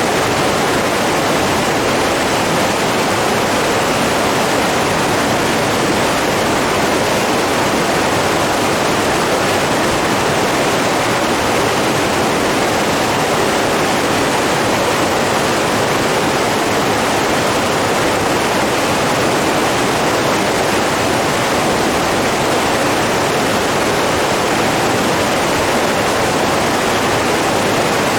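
Steady rushing of running water, an even unbroken roar with no distinct splashes or waves.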